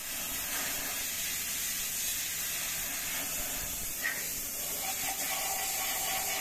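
Steady hissing noise, even and unbroken, strongest in the high frequencies.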